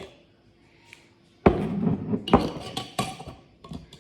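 Kitchen items knocked down and handled on a counter: three sharp knocks, each with a short ring, and a few lighter clinks, starting about a second and a half in.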